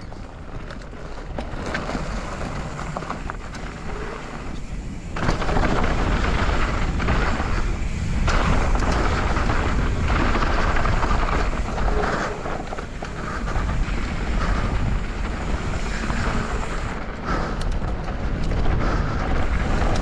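Wind rush on the action-camera microphone mixed with tyres rolling over a dirt trail and the rattle of a mountain bike (a YT Capra) descending at speed, growing louder about five seconds in as the bike picks up pace.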